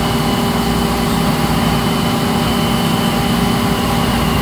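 Traub Swiss-type automatic lathe running, a steady mechanical hum with several constant whining tones.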